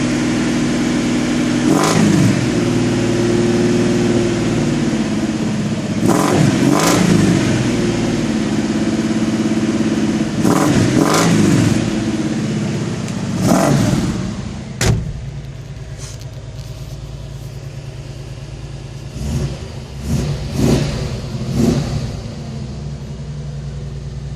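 Jeep CJ8's 258 cubic-inch inline-six with a two-barrel carburettor running cold at a fast idle and blipped on the throttle again and again in short revs. About 15 seconds in it settles to a lower, quieter idle, then gets three more quick blips near the end.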